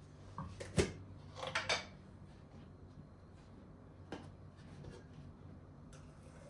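Kitchenware being handled: a sharp knock about a second in, a quick run of clinks just after, and another knock a few seconds later, over a faint steady low hum.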